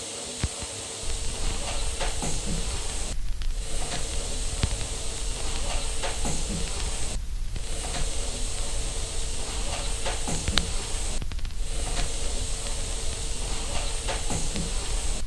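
Steady white-noise hiss with a faint steady whine in it, briefly dipping about every four seconds; a low rumble joins about a second in.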